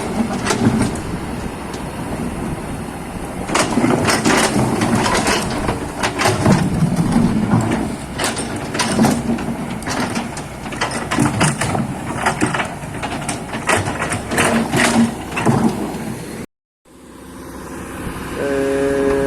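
Excavator at work: the engine runs under load while the bucket scrapes and knocks through mud and soil, with many sharp clunks. The sound cuts out briefly near the end.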